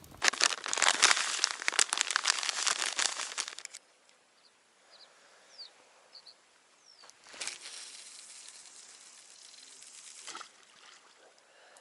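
Loud crackling rustle lasting about three seconds, then faint short bird chirps, then a second, softer rustle of about three seconds.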